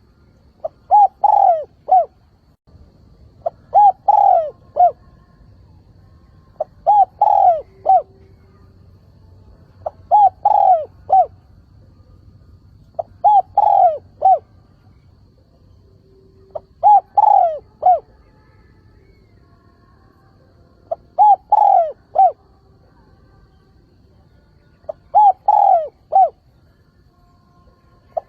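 Spotted dove calling: eight cooing phrases about every three to four seconds, each a short lead note followed by a run of coos. It is the calling song used as a decoy call to draw wild spotted doves in.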